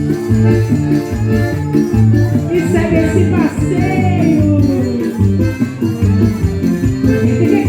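Live band playing upbeat festa junina music with a steady beat, sustained melody notes over a bass line and a shaker-like percussion keeping time.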